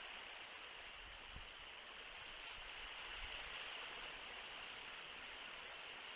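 Steady hiss of outdoor background noise on a nest camera's microphone, with faint low rumbles underneath.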